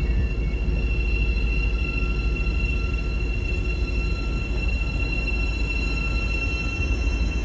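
A train running steadily: a constant low rumble with a steady high whine that does not change pitch.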